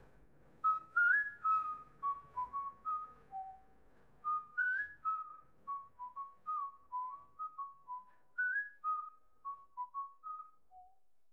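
A whistled tune: a run of short, clear notes rising and falling, some sliding up into the next.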